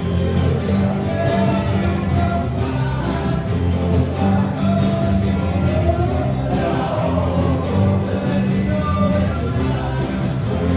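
A rock band playing a song live, with a singer over steady bass and drums.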